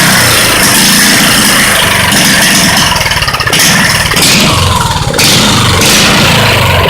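Subaru 178 cc single-cylinder power-washer engine on a mini bike, running loud through a straight-pipe exhaust with the governor removed. The throttle rises and falls, easing off briefly about three seconds in and again about five seconds in.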